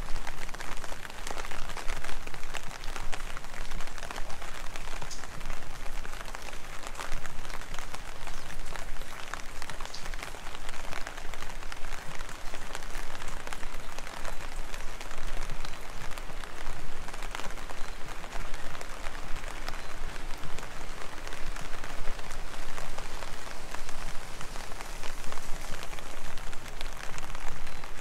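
Steady rain: an even hiss full of close, quick drop taps.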